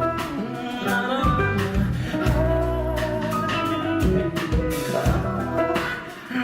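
Live band music: an instrumental passage of a rock song, with held guitar notes over bass and steady drum hits.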